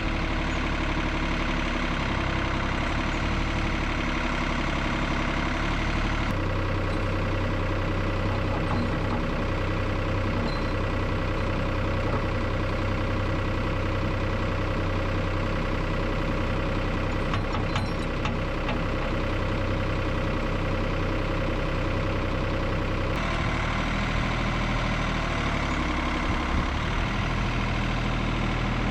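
An engine running steadily, its sound changing abruptly about six seconds in and again about twenty-three seconds in.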